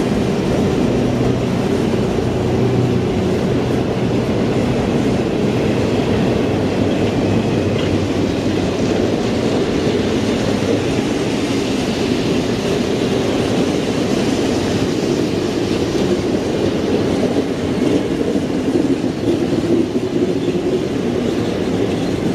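Train in motion heard from on board: a steady rumble of wheels running on the rails, with some clickety-clack.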